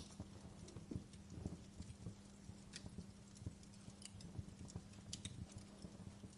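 Crackling fireplace fire: irregular pops and snaps of burning wood, several sharp cracks standing out, over a faint low steady hum.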